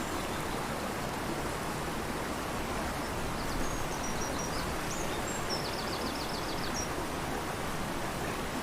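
A rushing river gives a steady, even rush of water. A small bird sings faintly over it in the middle: a few short high notes, then a quick trill of about eight notes.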